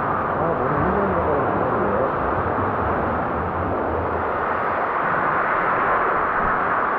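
Steady wash of swimming-pool noise: water splashing and churning as swimmers move through it.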